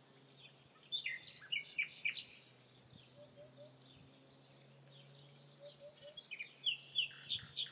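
Birds chirping and calling in two bursts of quick high chirps, one about a second in and one near the end, over a faint steady low hum.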